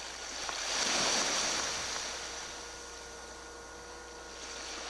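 A wave washing in, a rush of surf that swells about a second in and then slowly dies away.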